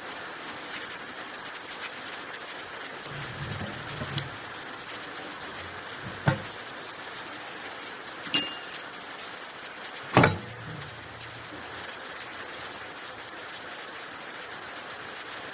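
Metal tools and engine parts clinking and knocking while the Lister SR3 engine is taken apart: four sharp strikes about two seconds apart, one with a brief metallic ring. A steady hiss runs underneath.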